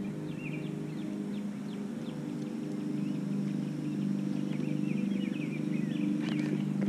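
Small birds chirping in quick rising and falling calls over a steady low hum, with a few sharp clicks near the end.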